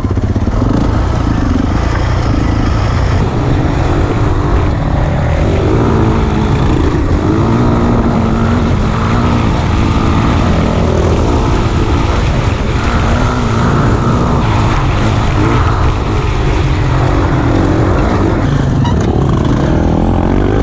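A 2009 450 dirt bike's engine running hard on a trail ride, its pitch rising and falling as the rider works the throttle.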